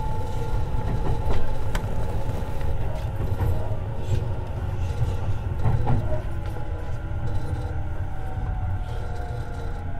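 Underfloor equipment of a Tobu 50090-series electric train standing at the platform: a steady low hum with a tone that slowly falls in pitch, and a few sharp clicks.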